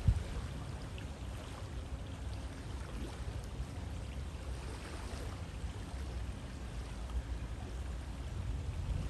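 River water flowing steadily, a constant rushing hiss with a low rumble underneath and a short low thump at the very start.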